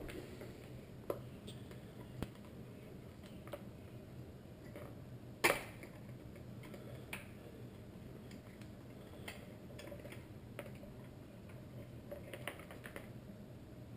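Scattered light clicks and taps of small plastic and metal headlight parts being handled as the HID bulb is taken out of the projector, with one sharper click about five and a half seconds in, over a faint steady hum.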